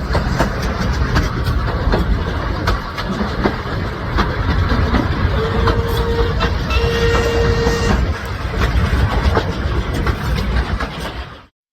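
Heritage steam train running along the track: a steady rumble with the clickety-clack of wheels knocking over rail joints. Two brief held tones sound near the middle, and the sound cuts off just before the end.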